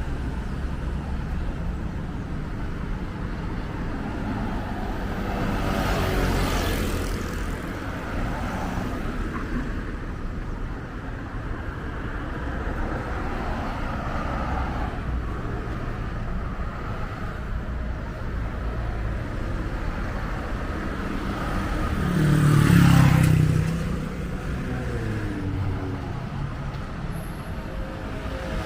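Steady rumble of city road traffic, with vehicles passing close by: one a few seconds in and a louder one about three-quarters of the way through, its engine note falling as it goes past.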